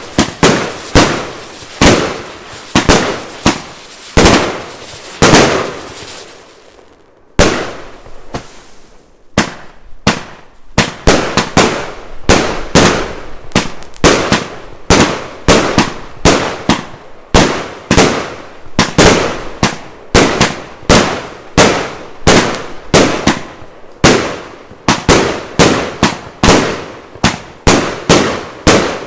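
Pangu Colourful City fireworks cake firing a rapid string of shots, each a sharp bang as a shell bursts, about two a second. There is a pause of about a second some seven seconds in.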